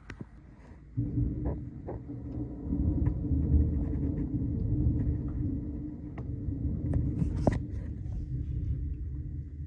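Rolling thunder: a long low rumble that starts suddenly about a second in, swells and falls several times, and eases off near the end.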